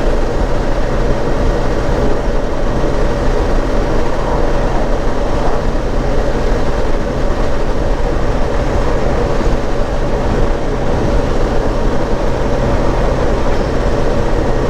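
Honda Gold Wing GL1800 motor trike's flat-six engine running at a steady cruise, mixed with steady wind and road noise: an even drone with a constant hum and low rumble.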